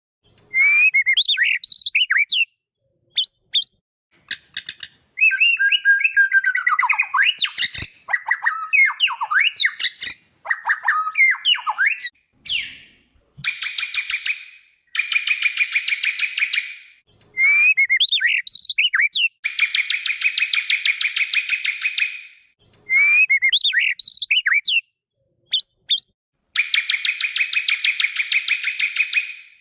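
White-rumped shama (murai batu) singing a varied song of quick whistles and chirps. Three times it breaks into a long, even, buzzy rattle lasting two to three seconds.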